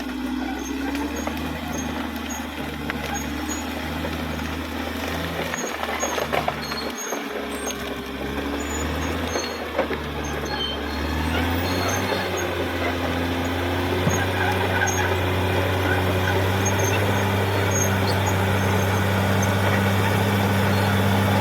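Caterpillar D6R XL bulldozer's diesel engine running, with a few scattered knocks in the first half. About twelve seconds in, the engine note rises and gets louder, then holds steady under higher revs.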